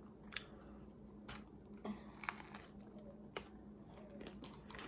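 Faint chewing while eating a fried chicken sandwich, with a few soft mouth clicks scattered through.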